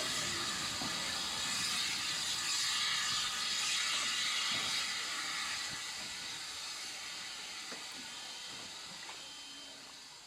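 Steam locomotive letting off steam: a steady, loud hiss that slowly fades away over the second half.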